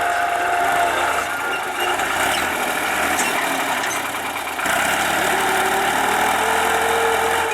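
New Holland TT55 tractor's diesel engine running steadily, stepping up slightly louder about four and a half seconds in.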